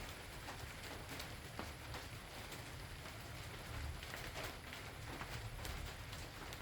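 Steady rain falling, with many separate drops striking close by over an even hiss, and a low rumble underneath throughout.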